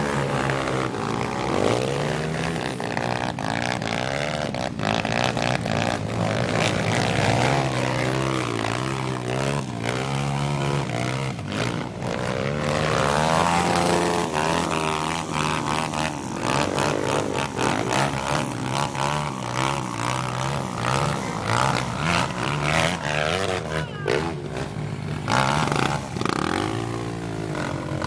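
Several trail motorcycle engines running and revving together, their pitch rising and falling repeatedly.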